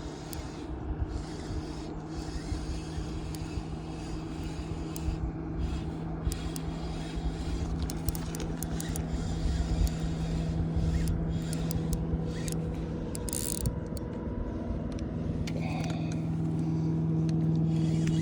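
A boat motor hums steadily over a low rumble, growing louder over the last few seconds, with scattered small clicks and knocks.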